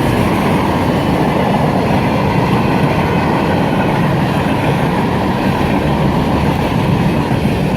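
A freight train rolling past, its cars and wheels running steadily on the rails.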